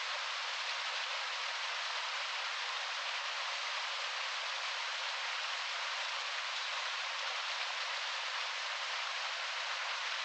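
Heavy rain on a window, a steady even hiss with no thunder and no separate drops standing out.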